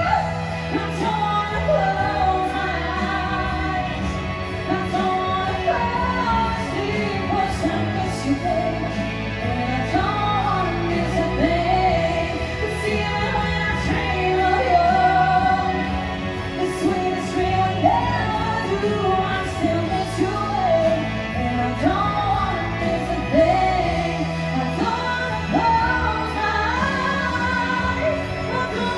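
A singer's voice, sustained and with vibrato, over a backing band or track with steady bass and chords: a live ballad performance in a large hall.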